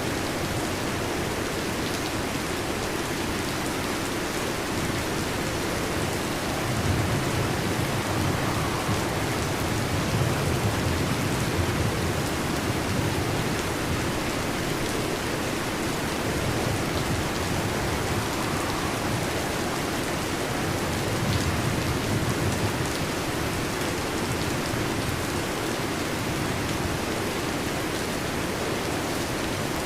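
Steady heavy rain, with low rumbles of thunder swelling up about a quarter of the way in and again past the middle.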